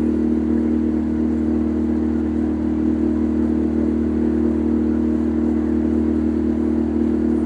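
Boat engine running at a steady, unchanging pitch: a constant loud drone.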